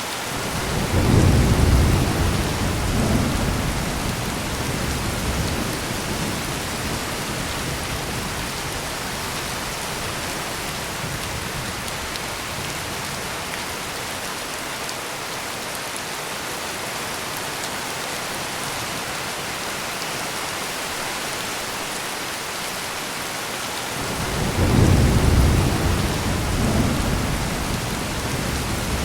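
Heavy rain falling steadily, with two rolls of low thunder: one rumbling up just after the start and fading over about five seconds, the other swelling about 24 seconds in.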